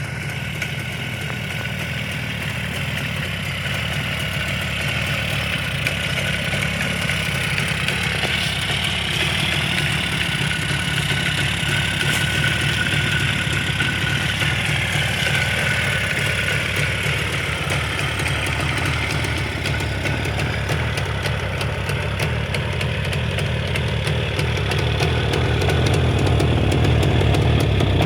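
Jawa 350 two-stroke twin engine idling steadily, growing a little louder near the end.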